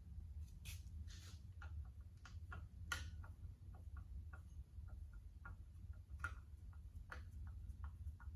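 A string of light, irregular clicks and taps, about two to four a second, over a steady low hum.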